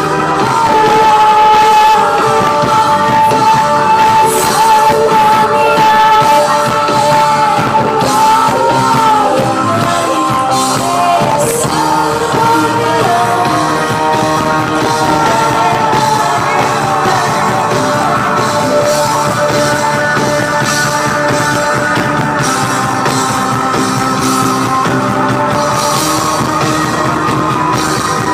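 Live band playing a song with singing. About a second in, the singer holds one long note for several seconds, then goes on in shorter phrases over the band.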